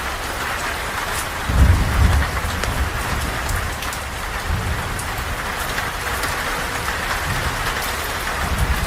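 Steady rain falling, with a low rumble of thunder that swells about a second and a half in and fades over a second or so, and a weaker rumble near the end.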